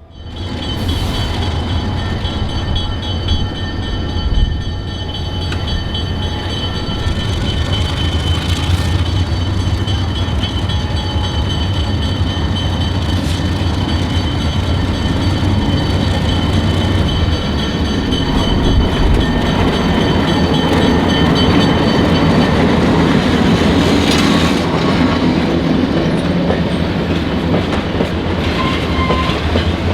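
Diesel locomotive MT 200 hauling a caboose train past, its engine running steadily with the rumble of the train on the rails.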